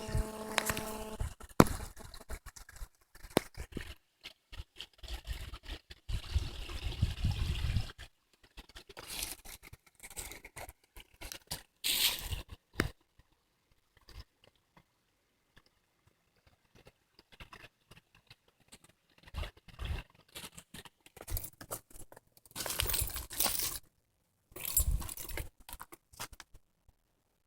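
Footsteps crunching and scuffing through dry dead leaves and brush on a woodland trail, in uneven bursts with quiet pauses between them.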